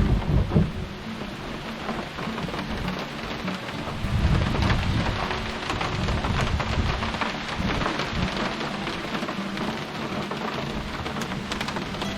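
Steady rain with many small drop ticks. Low thumps and rumbling come right at the start and again about four to five seconds in.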